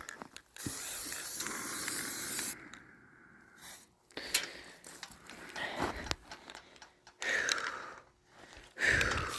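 Aerosol spray paint can spraying: one steady hiss of about two seconds near the start, sharp clicks and rattles in the middle, and shorter sprays near the end. The can is running low on paint.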